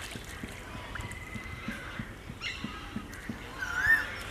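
Bird calls: a short burst of pitched calls about two and a half seconds in, then a louder call that rises and falls in pitch near the end.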